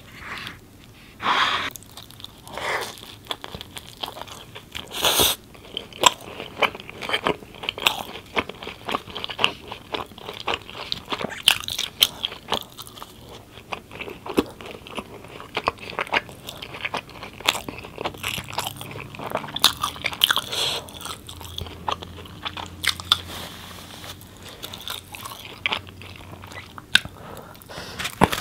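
Close-miked chewing and biting of naan dipped in curry sauce: irregular soft crunches and wet mouth clicks, one after another throughout.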